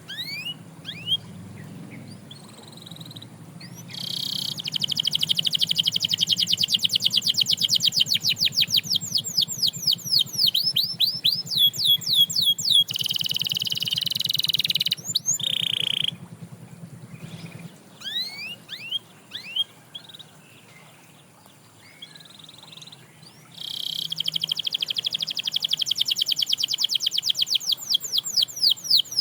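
Domestic canary singing: two long, fast trills of rapidly repeated notes, with separate short rising chirps and a quieter pause between them.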